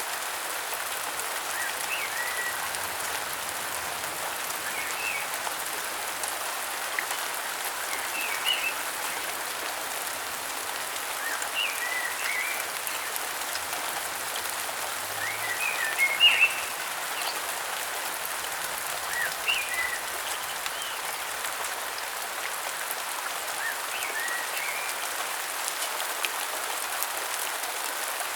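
Steady rain hissing on foliage, with a bird giving short chirping calls every three to four seconds; the loudest call comes a little past the middle.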